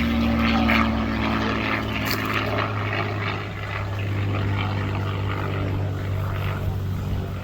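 Piston-engine propeller warbird, the Red Tail P-51 Mustang with its V-12 engine, droning steadily overhead, loudest in the first second.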